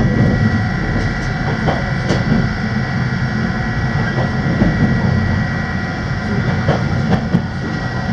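Running noise of an electric passenger train heard from inside the car: a steady low rumble of wheels on rail with a thin steady high tone, and a few scattered clicks as the wheels pass over rail joints and points.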